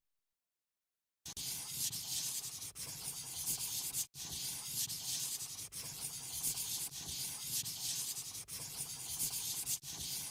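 Colouring on paper: a drawing tool rubbing continuously back and forth across the page, starting about a second in, with short breaks every second or so as the strokes pause.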